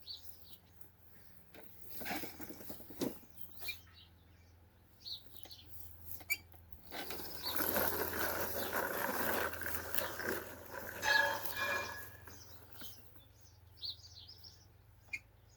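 Small birds chirping faintly, over a steady low hum, with a stretch of louder rushing noise lasting about five seconds midway.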